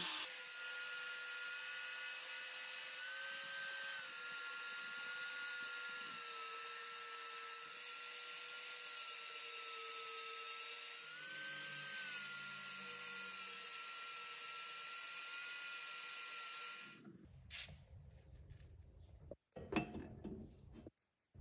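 A small power tool's motor running steadily with a high whine and hiss. Its pitch rises briefly twice, and it stops about 17 seconds in, followed by a few faint clicks and knocks.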